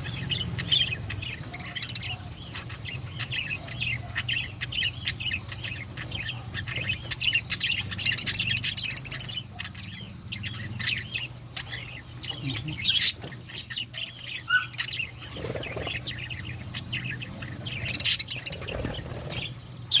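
Budgerigars chattering with a steady stream of quick, high chirps and a few louder squawks, over a steady low hum.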